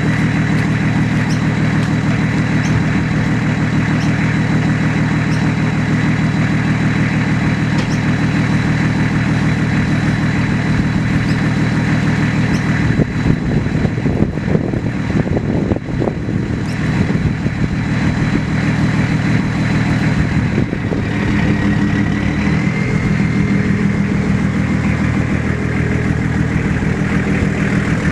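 Nissan GU Patrol 2.8 turbo diesel engine idling through its exhaust. It runs steadily, goes uneven and fluctuating for several seconds around the middle, then settles back to a steady idle.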